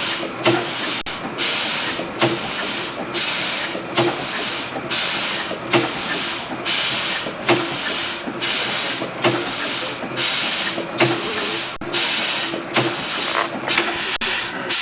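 Fowler steam traction engine running slowly, its exhaust chuffing in steady hissing beats about once a second.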